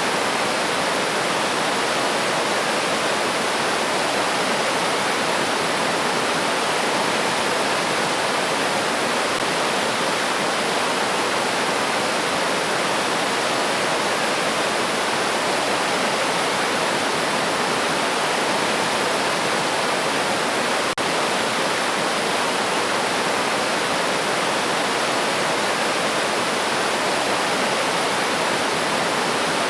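River stream flowing, a steady, unbroken rush of running water.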